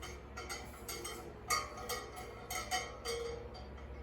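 A string of light metallic clinks and taps from a small metal object being handled on a workbench, several with a short ring.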